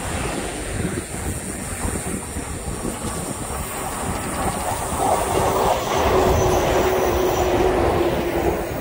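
JR 115 series electric train passing close by, its running noise building to a peak about five seconds in. A steady tone rides over the rumble in the louder second half.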